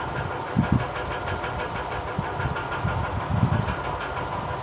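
A motor vehicle engine running steadily, with irregular low thumps underneath.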